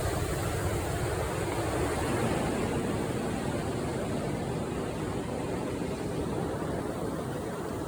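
Steady rushing noise with a faint low hum during the first two seconds.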